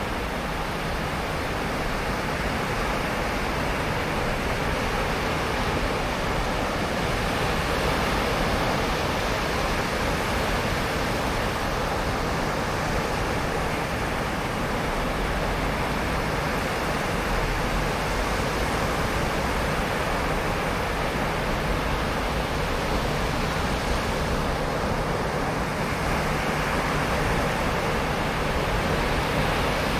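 Ocean surf on a beach: a steady wash of breaking waves with slow, gentle swells in loudness.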